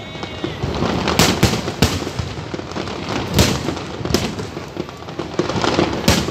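Aerial fireworks bursting: about six sharp bangs at uneven intervals, over a continuous crackle and rumble from many shells going off at once.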